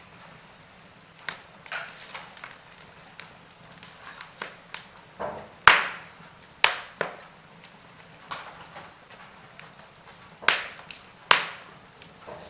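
Wood fire crackling in a fireplace: irregular sharp pops and snaps over a low hiss, with a few louder pops around the middle and near the end.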